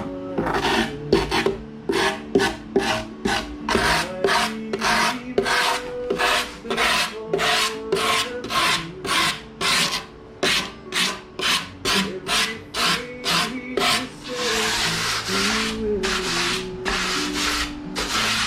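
Hand rasping or sanding on a foam taxidermy form, in quick back-and-forth strokes about two a second, that blend into continuous rubbing about fourteen seconds in.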